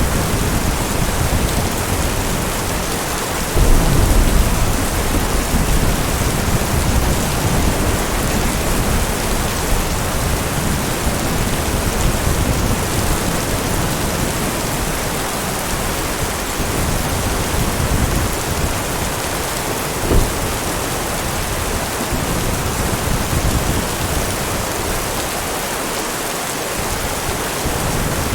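Heavy rain falling steadily with thunder: a low rumble swells about three and a half seconds in, and a short low thump comes about two-thirds of the way through.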